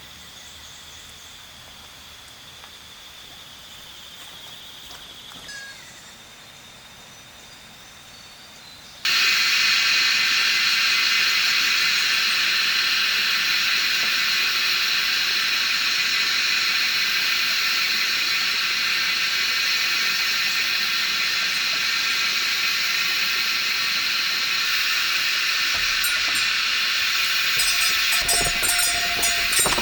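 Insects shrilling: at first a faint steady high chirr, then about nine seconds in a much louder, dense insect chorus cuts in abruptly and holds steady. Near the end a few knocks and a low rumble join it.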